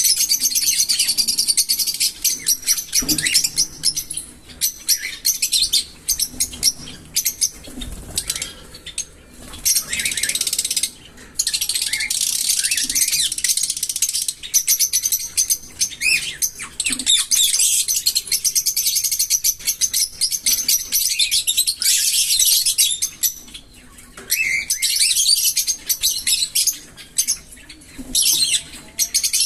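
Small pet parrots chattering and chirping, a rapid, high-pitched stream of notes that goes on with only short pauses.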